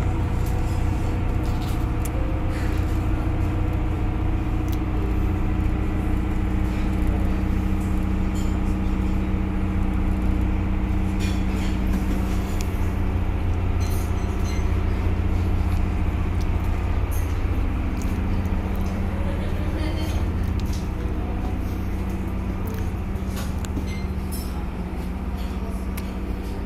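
Boat engine running steadily: a deep, even drone with a constant low hum.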